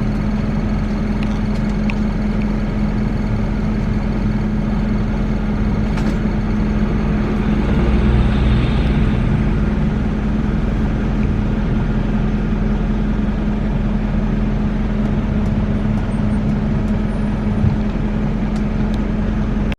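Car engine and road noise inside a moving car's cabin, a steady hum.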